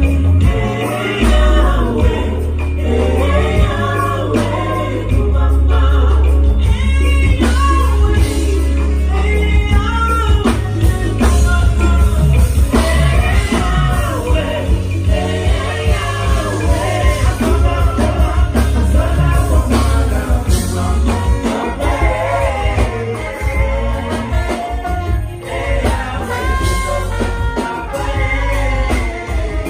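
A live band playing with singing over a heavy, continuous bass line during a sound check.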